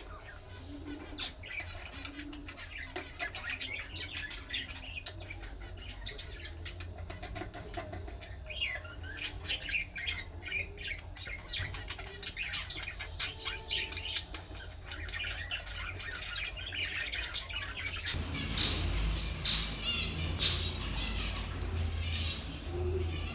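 Small cage birds chirping and squawking, a dense run of short overlapping calls over a low steady hum. It becomes louder and noisier about 18 seconds in.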